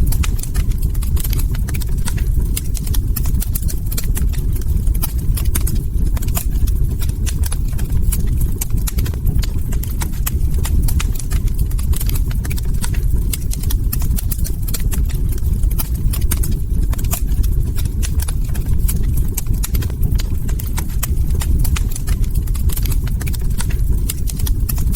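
Log fire crackling: a dense, irregular stream of sharp pops and snaps over a steady low rumble.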